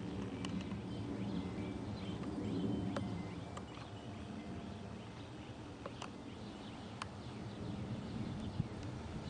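Low, distant rumble of a jet airliner high overhead, swelling about two to three seconds in, with birds chirping and a few sharp clicks over it.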